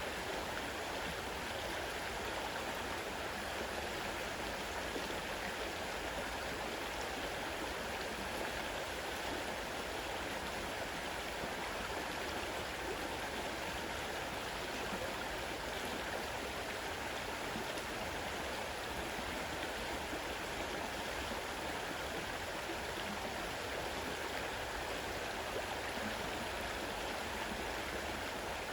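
Fast-running river water rushing steadily.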